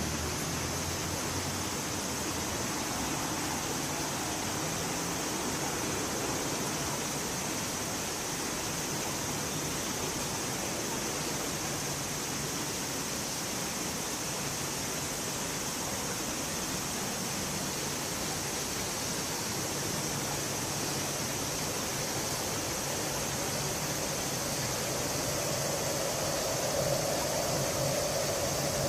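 A steady hiss with a faint low hum under it; a faint higher tone comes in near the end.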